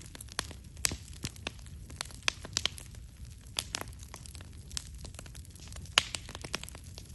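Wood campfire crackling, with irregular sharp pops and snaps, the loudest about six seconds in.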